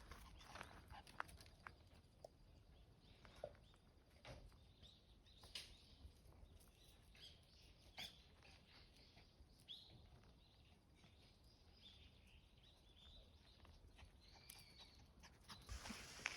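Near silence: faint outdoor ambience with scattered small clicks and a few faint, short high chirps.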